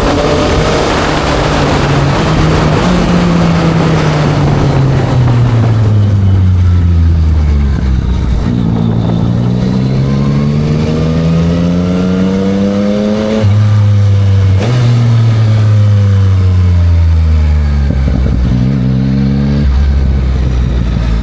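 2024 Yamaha MT-09 SP's inline three-cylinder engine through a Spark full exhaust, heard from the moving bike. The engine note falls as it slows, then climbs through the revs under acceleration, with sudden drops in pitch at gear changes.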